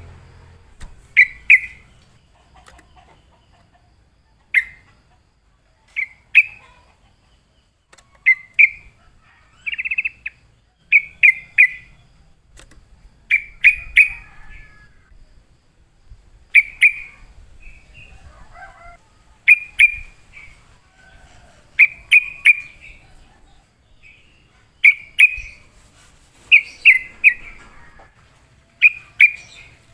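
Yellow-vented bulbul (trucukan) singing: short, loud chirping phrases repeated every second or two, with brief pauses between them.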